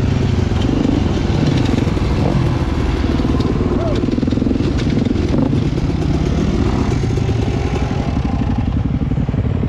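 Dirt bike engine running steadily while riding, with a fast, even firing pulse under a dense low rumble.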